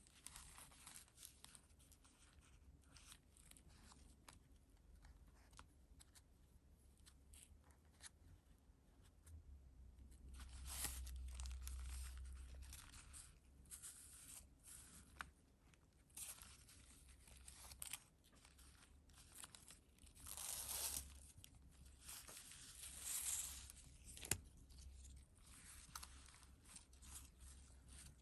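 Pages of a handmade paper junk journal being handled and turned: soft rustling and crinkling of stiff, layered paper, with small taps and clicks. There are several longer, louder rustles, one about halfway through and two more later on, and a sharp click shortly before the end.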